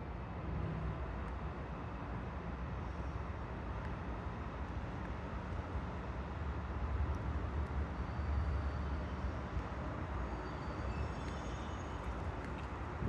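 Steady low vehicle rumble with a noisy hiss over it, swelling about seven to nine seconds in.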